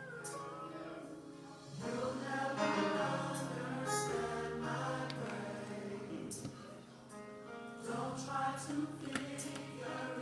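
Gospel worship music: a choir singing over a band, with held low notes underneath and occasional sharp hits.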